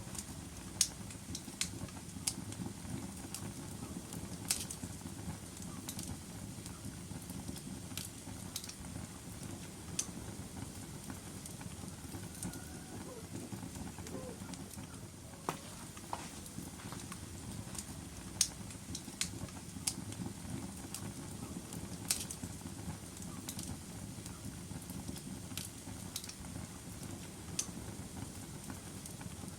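Wood fire burning in a fireplace: a steady low rumble of the flames with irregular sharp crackles and pops from the burning logs, about a dozen scattered through.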